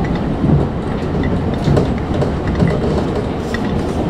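Tokyu 9000-series electric train running, heard from inside the front car: a steady low rumble of wheels on rail with repeated low thumps from rail joints.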